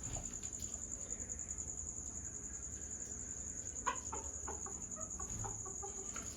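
Faint scattered bird calls, with one sharper chirp about four seconds in, over a steady high-pitched whine.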